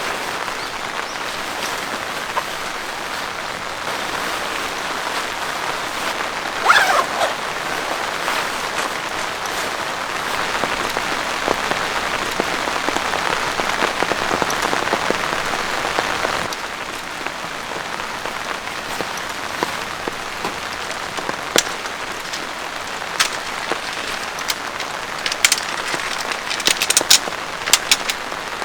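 Heavy rain falling steadily, with sharp individual drop strikes that come more often in the last several seconds. A brief wavering higher sound rises out of the rain about seven seconds in.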